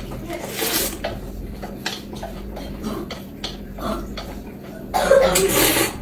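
A person coughs near the end, with a shorter noisy burst about half a second in and small sharp clicks in between.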